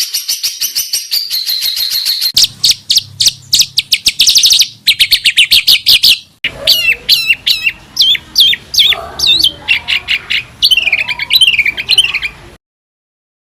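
Songbird song from a tutor recording: fast trills and runs of rapid high notes, then a string of sharp down-slurred whistles with some chatter. It changes abruptly twice as recordings are spliced, and stops suddenly about a second before the end.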